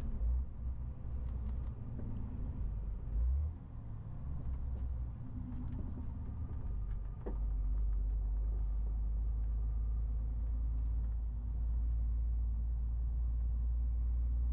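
MAN TGX 18.470 truck's six-cylinder diesel engine and road noise heard as a low rumble while driving. A few knocks come in the first few seconds, and about halfway through it becomes louder and steadier.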